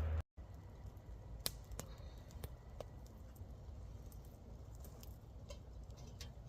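Wood fire crackling faintly: scattered sharp pops and snaps, irregularly spaced, over a low steady rumble.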